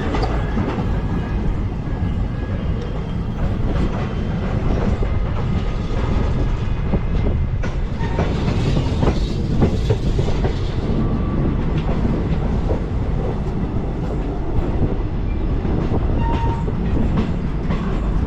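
Passenger express train running on its track, a steady loud rumble with the wheels clattering over the rail joints.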